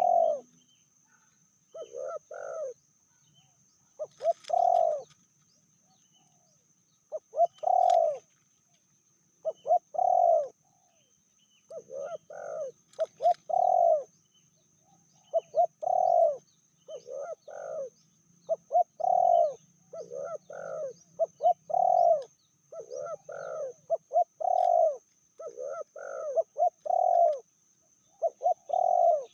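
Spotted doves cooing repeatedly, short coo notes in clusters of two to four that come every second or two, with a gap of a couple of seconds near the start.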